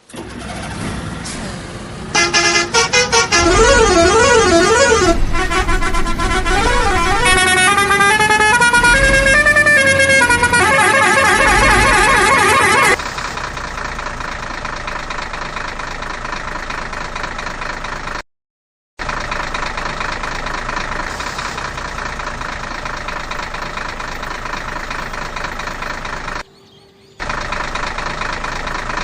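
Electronic sound effects from a battery-powered toy vehicle. A warbling siren and gliding beeping tones play for about ten seconds, then give way to a steadier buzzing engine-like sound that cuts out briefly twice.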